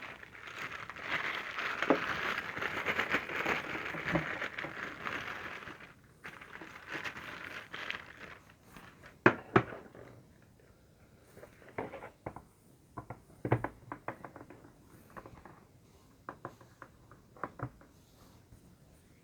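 Figure packaging being handled and opened: plastic crinkling steadily for about six seconds, then scattered clicks and taps of plastic and cardboard.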